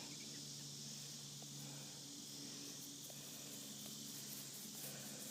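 Faint room tone: a steady low hum with hiss, broken by a few soft ticks.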